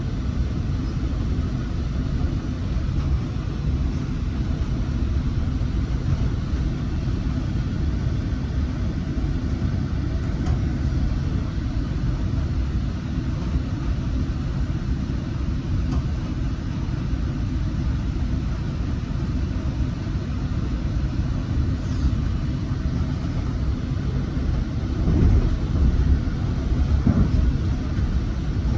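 Coaster commuter train running along the track, heard from inside a passenger car: a steady low rumble of wheels and car body in motion, a little louder with a few heavier knocks near the end.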